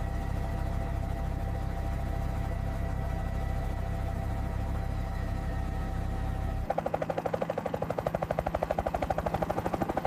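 Helicopter in flight: a steady engine hum, then, about two-thirds of the way through, a fast, even rotor chop of roughly ten beats a second.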